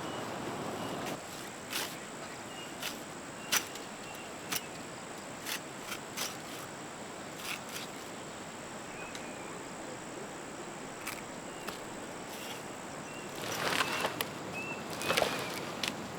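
Rural outdoor background with a thin steady high tone and faint short chirps. Scattered sharp knocks and taps come through it, growing busier near the end.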